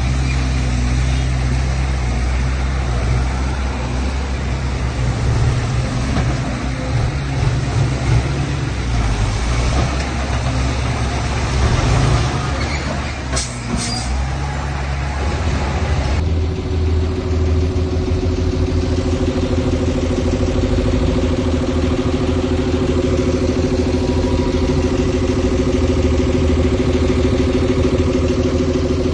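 Heavy diesel earthmoving machinery working: a loud, rough engine noise with a deep hum and a couple of brief sharp clicks midway. About halfway through, the rough noise drops away and a single engine settles into a steady idle.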